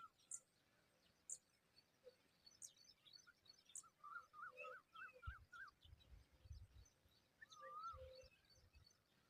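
Faint bird calls: thin high chirps, a quick run of about eight short notes in the middle, and a looping whistled note near the end, over low wind rumble in the second half.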